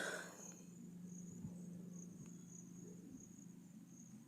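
Crickets chirring in a faint, steady high trill, over a low steady hum.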